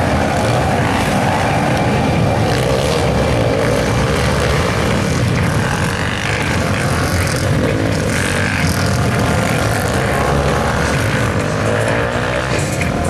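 Supermoto motorcycles lapping the track, their engines running continuously with the pitch rising and falling as they accelerate and brake.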